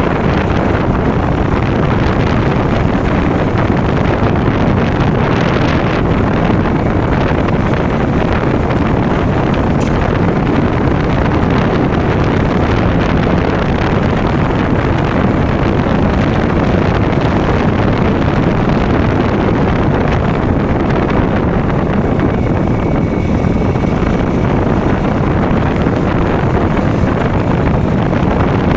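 KTM Duke motorcycle's single-cylinder engine running steadily at road speed, mixed with wind rushing over the microphone.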